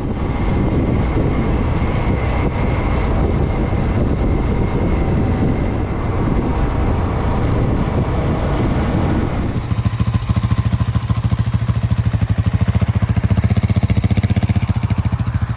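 Motorcycle riding along with heavy wind rush over the engine. About nine and a half seconds in, the wind noise falls away and the engine's rapid, even low pulsing comes to the fore as the bike slows.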